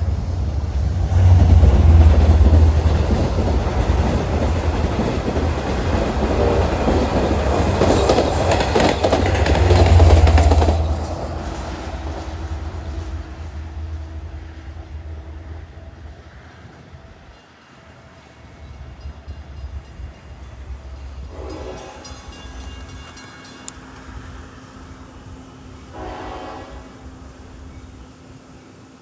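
A diesel train passing close by with a loud rumble and wheel clatter, fading away after about ten seconds. Two fainter horn blasts sound near the end.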